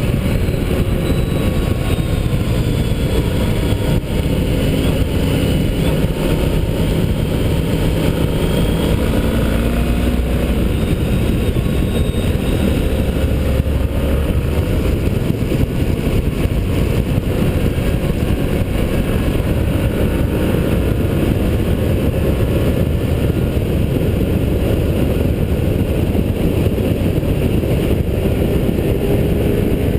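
Motorcycle engine running hard on a race track, its pitch rising and falling as the rider accelerates, shifts and brakes, under a heavy rush of wind noise.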